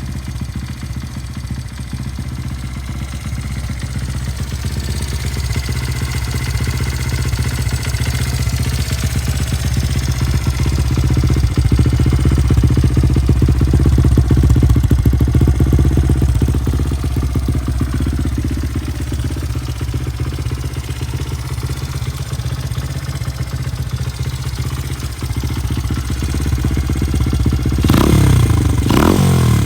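Honda Ape 100's air-cooled single-cylinder four-stroke engine idling steadily through an aftermarket Yoshimura muffler, then revved up and down a few times near the end.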